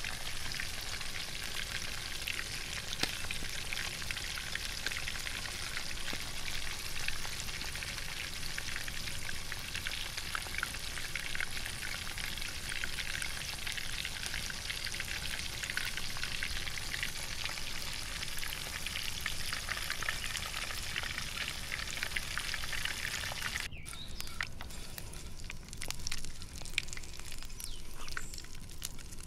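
Flour-coated beef strips deep-frying in hot oil: a steady, dense sizzle full of fine crackles. Near the end it drops abruptly to a fainter sizzle with a few clicks.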